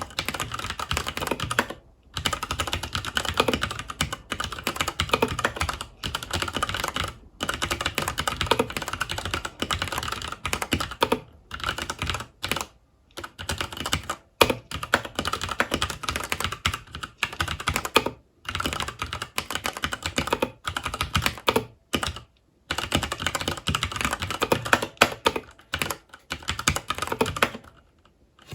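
Typing on a FILCO Majestouch 2 Hakua tenkeyless mechanical keyboard with Cherry MX Brown switches: fast runs of key clicks and clacks, broken every few seconds by short pauses.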